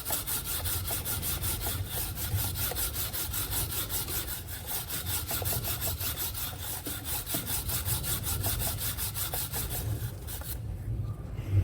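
Chain-cleaning brush scrubbing a motorcycle's drive chain as the chain is turned through it, a fast, even rasping rhythm that stops about ten and a half seconds in.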